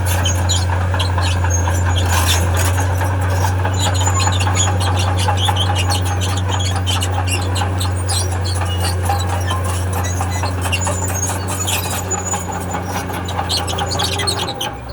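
Crawler bulldozer working, a steady low engine drone under continual high squealing and scraping from its steel tracks.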